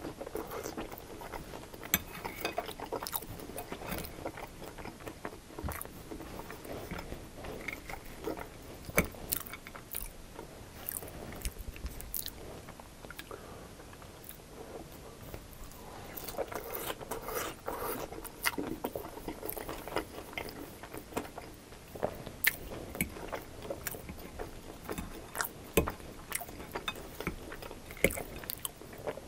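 Close-miked chewing of chili-cheese fries: wet, squishy mouth sounds with frequent short sharp clicks, and a metal fork digging into the plate near the end.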